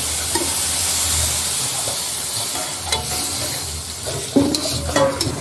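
Suung bulan mushrooms and spice paste sautéing in oil in a metal wok with a steady sizzle, while a metal spatula stirs and scrapes through them. There is a sharp clink of the spatula on the pan about three seconds in.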